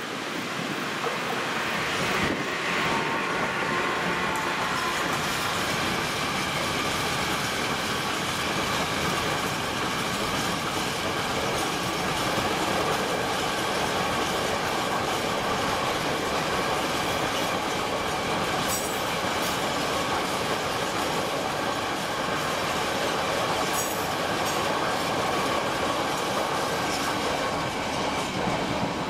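Freight train of empty flat wagons hauled by an electric locomotive passing close by: a steady rumble and clatter of wheels on the rails, with two brief high squeaks in the second half.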